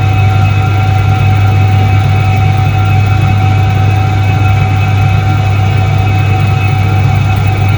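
1978 Soviet Iset-3 washing machine running: a steady, loud low hum with a fainter steady whine above it and an even rattling hiss, unchanging throughout.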